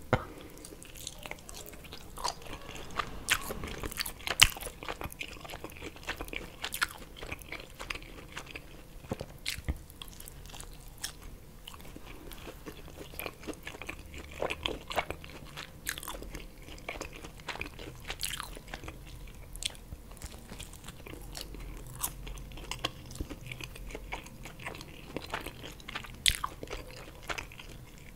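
Close-miked chewing and biting of a slice of pizza: a loud bite right at the start, then steady chewing full of sharp, irregular wet mouth clicks.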